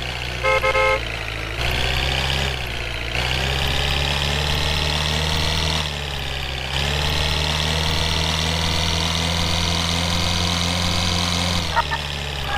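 Truck engine sound running steadily, its drone shifting slightly in level a few times. A quick burst of several short horn toots comes about half a second in.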